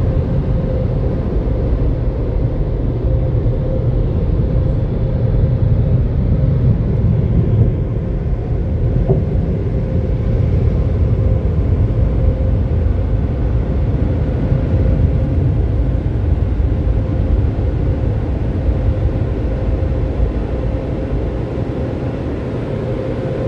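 Automatic car wash air-dryer blowers running steadily, a loud rush of air with a steady fan hum, heard from inside the car.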